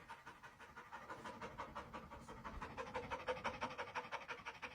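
Fast, rhythmic panting, about seven quick breaths a second, faint and steady.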